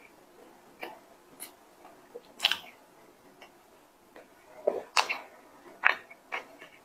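Mouth sounds of someone chewing a soft chocolate-coated cream pastry: irregular wet clicks and smacks, a few louder ones past the middle.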